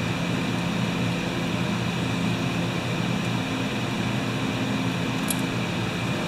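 A steady mechanical hum with a few low held tones, like a fan or air-conditioning unit running, and a faint click about five seconds in.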